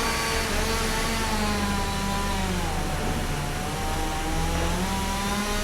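Pallet sawmill machinery running steadily. Its pitch sags for a second or two around the middle and comes back up near the end.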